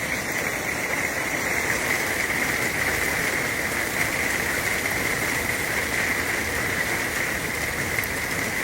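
Heavy rain pouring steadily in a severe thunderstorm.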